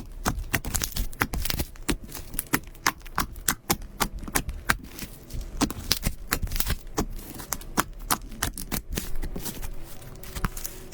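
Slime being worked by hand, squeezed and pressed, giving a quick, irregular run of sharp wet clicks and pops, several a second.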